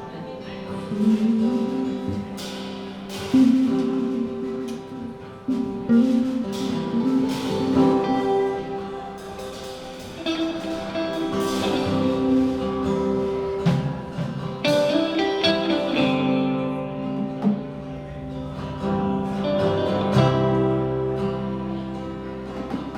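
Live band playing an instrumental passage with guitar to the fore.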